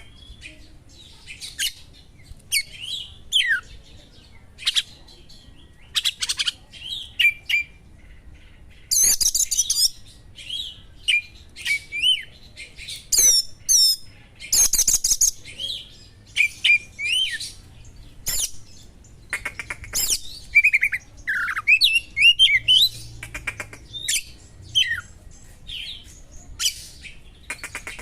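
Oriental magpie-robin (kacer) song with sharp small-bird calls in it: quick, varied chirps, whistles and short rising and falling notes in brief phrases. Two dense rapid trills, about nine and fourteen seconds in, are the loudest parts.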